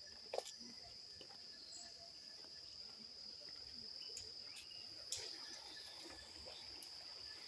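Crickets trilling steadily at one high, even pitch, with a sharp click about half a second in and another about five seconds in.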